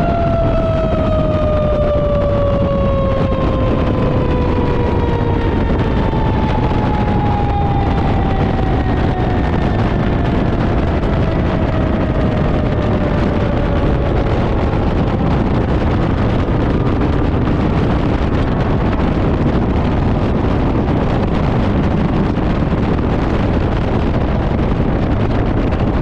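Fire engine's mechanical siren winding down after being switched off, its pitch falling slowly over about fifteen seconds until it fades out. Underneath is steady loud engine, road and wind noise from the moving truck.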